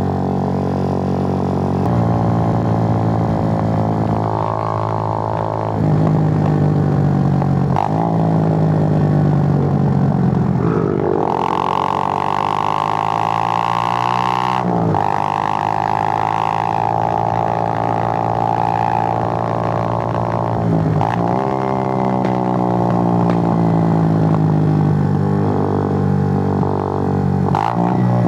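Suzuki GN125's single-cylinder four-stroke engine running under way, heard from on the bike. Its note rises and falls several times, with brief breaks as the revs drop and pick up again.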